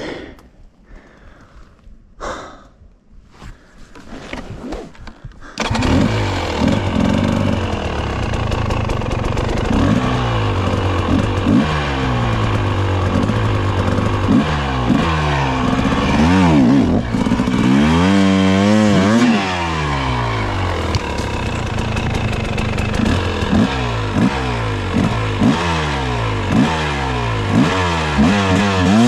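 Off-road motorcycle engine revving up and down over and over as the bike is ridden over rough trail, cutting in suddenly about five seconds in after a quieter stretch of faint scattered sounds.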